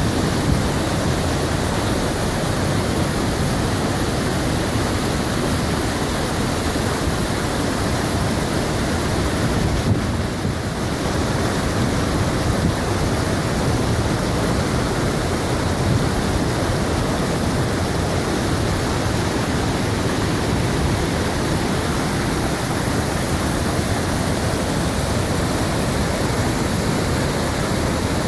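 Waterfall about 20 metres high, its water falling with a steady, loud rush; the sound dips briefly about ten seconds in.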